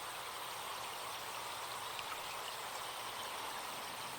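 Forest stream running steadily, with faint scattered high chirps or ticks over it.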